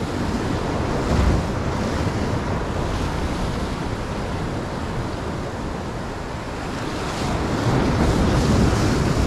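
Sea surf washing against a rocky shore, with wind buffeting the microphone; the wash swells about a second in and again near the end.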